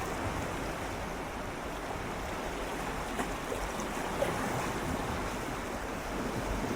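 Gentle ocean waves swirling and lapping against shoreline rocks, a steady wash of water with small splashes and a light trickle about three and four seconds in.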